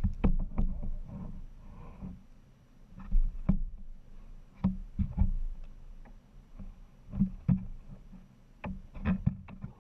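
Kayak being paddled: irregular sharp knocks and thumps of paddle and hull over a low rumble.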